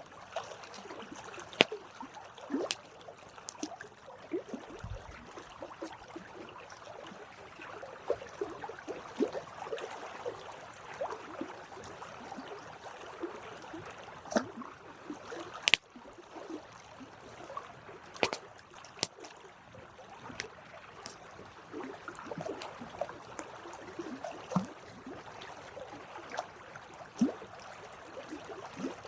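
Wood campfire burning: a steady crackle and hiss, broken by sharp pops every second or two at irregular intervals, the loudest about 2 and 16 seconds in.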